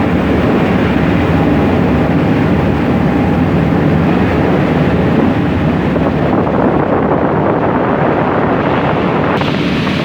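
Fast passenger ferry under way: a loud, steady rumble of engines mixed with rushing wind and water.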